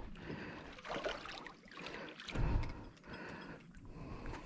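Baitcasting reel being cranked, a light mechanical clicking, as a hooked bass is reeled in to the kayak, with a louder dull bump about two and a half seconds in.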